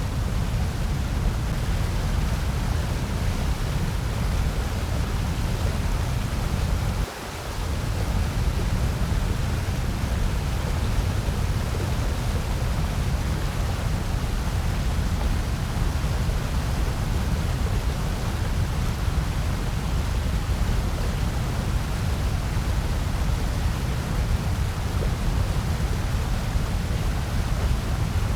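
Steady generated noise, an even hiss with most of its weight in a deep low rumble. It dips briefly in level about seven seconds in.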